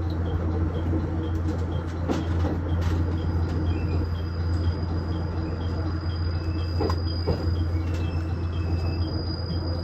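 KiHa 110 series diesel railcar's engine running steadily with a low hum, with a faint high ticking about twice a second and a few light clicks.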